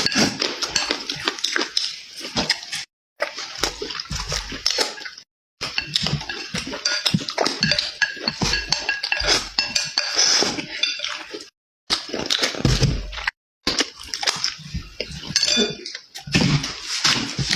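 Close-up eating sounds: chewing and mouth noises with utensils clicking and clinking against dishes, in a dense run of short clicks. The sound is broken by several abrupt moments of dead silence.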